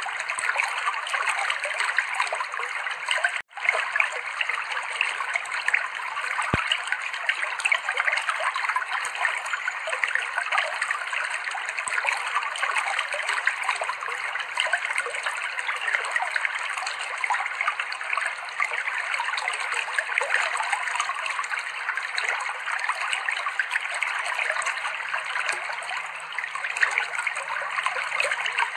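Clear river water flowing steadily over rocks, a continuous babbling and trickling. The sound drops out for a split second about three and a half seconds in.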